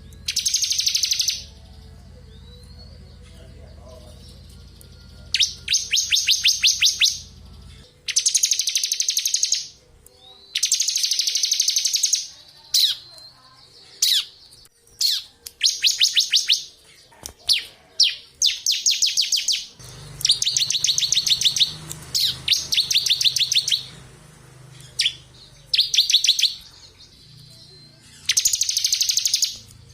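Bar-winged prinia (ciblek kristal) singing in repeated fast high trills ('ngebren'), each burst about one to two seconds long, with short single chirps between. A faint low hum runs underneath for the first several seconds and again in the latter part.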